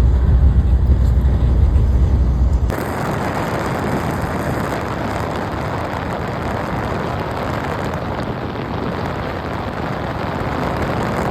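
Steady road noise of a moving car: a deep rumble for the first few seconds, then an abrupt change to a steady, even hiss.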